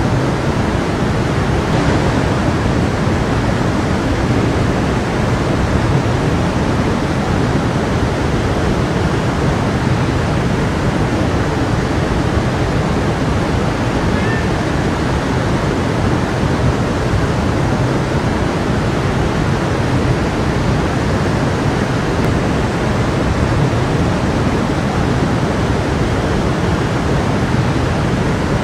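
A stream of water rushing and babbling over rocks, a steady, loud, unbroken rush.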